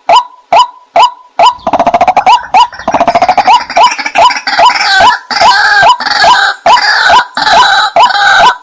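White-breasted waterhen calls used as a lure: a steady run of repeated 'kwak' notes, about two a second. From about a second and a half in, a faster rattling chatter and harsher overlapping calls join them.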